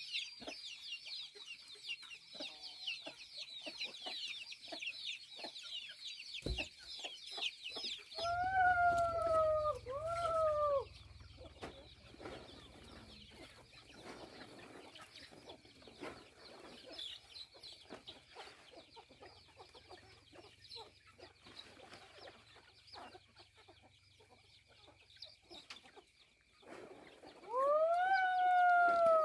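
A rooster crows twice, about eight seconds in and again near the end, each crow a loud arching call. Before the first crow there is a stretch of rapid high chirping, and a steady high tone runs underneath.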